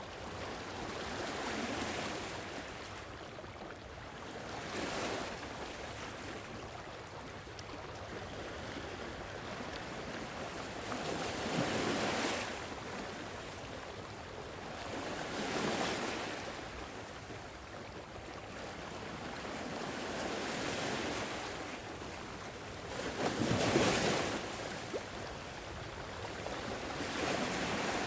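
Gentle sea waves washing onto a shore, swelling and falling away every few seconds, the biggest wash near the end.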